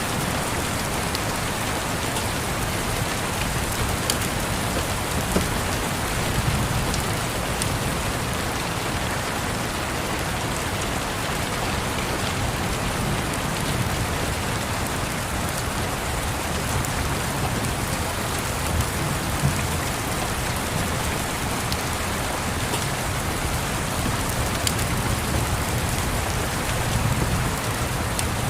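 Steady rain hiss, with scattered small crackles from a wood fire. A soft low rumble swells and fades now and then, like distant thunder.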